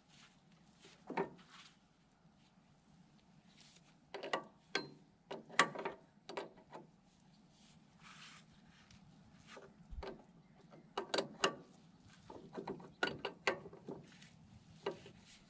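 Hand tools clicking and clinking against metal hydraulic line fittings as they are fitted and wrenched, in irregular clusters of sharp clicks.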